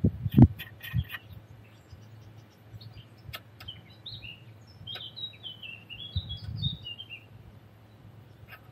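A small bird singing a quick warbling phrase of short chirped notes through the middle, over a few sharp clicks and knocks of tools and parts being handled, the loudest about half a second in.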